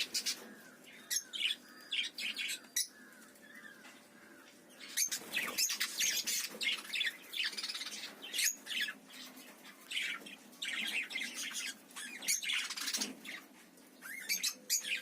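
Small caged parrots (budgerigars and African lovebirds) in an aviary chirping and squawking in many short, sharp calls, with a quieter stretch a few seconds in.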